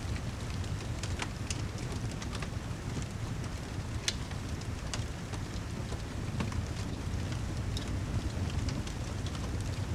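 Rain and crackling fireplace ambience: a steady low rumble with an even hiss, dotted with scattered sharp crackles and pops.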